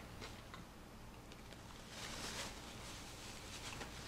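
Quiet close-up chewing of a bite of soft bread roll: faint mouth clicks and smacks.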